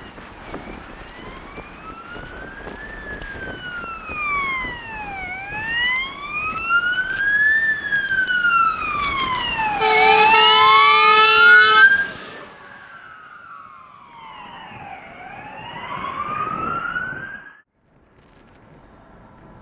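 Fire engine siren wailing, its pitch slowly rising and falling, with a loud steady horn blast for about two seconds near the middle. Afterwards a second, lower wailing siren rises and falls, then cuts off suddenly.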